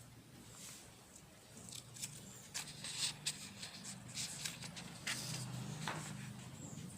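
Handwriting: irregular short scratchy strokes and light taps of a pen writing, busiest in the middle, over a faint steady low hum.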